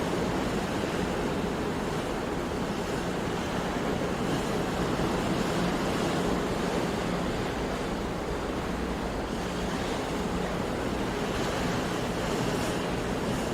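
Sea waves breaking on a shore, a steady wash of surf, with wind on the microphone.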